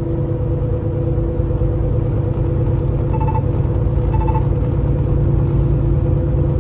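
Semi-truck cab at highway speed: a steady engine and road drone. About three seconds in come two short electronic chime beps, a second apart, from the truck's forward radar warning system, signalling that the truck is following too close to the vehicle ahead.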